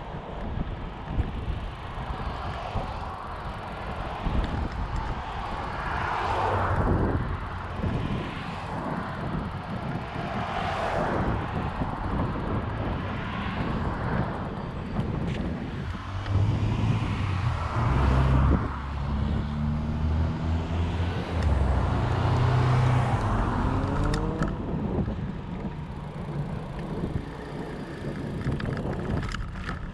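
Wind and tyre noise from a moving bike, with vehicles passing several times, each one swelling and fading. A low engine rumble runs through the middle.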